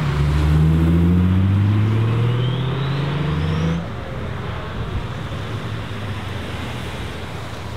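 Car engine accelerating hard, its pitch climbing steadily for about four seconds, then dropping away suddenly, leaving fainter engine and road noise.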